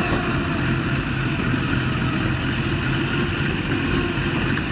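Heavy vehicle engine running steadily at an even speed, a constant low drone.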